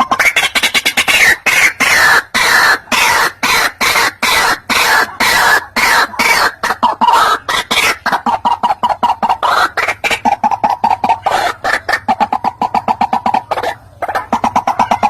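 White-breasted waterhen calling: a loud, fast run of harsh repeated notes, several a second, settling lower and more even in the second half, with a short break near the end.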